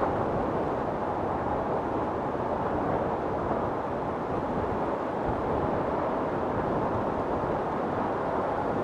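Storm wind blowing steadily: a low, even rushing sound with no gusts standing out.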